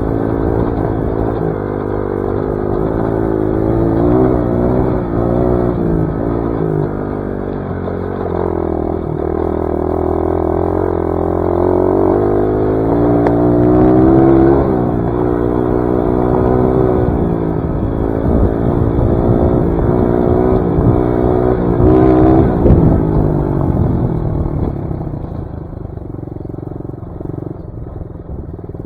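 Dirt bike engine running under way, its revs rising and falling again and again as the rider accelerates and backs off, with knocks and clatter from the bike over rough ground in the middle stretch. Near the end the engine settles to a lower, steadier speed and grows quieter.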